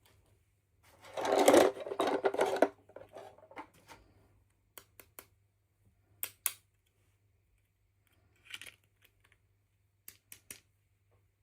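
Plastic packaging rustling and crinkling for about two seconds as a toy is unboxed, then a scattering of light clicks and taps from small plastic pieces being handled.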